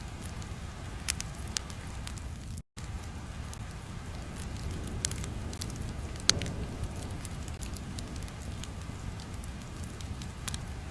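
Crackling fire ambience: a low steady rumble with scattered sharp pops, the loudest a little past the middle. The sound drops out completely for a split second about a quarter of the way in.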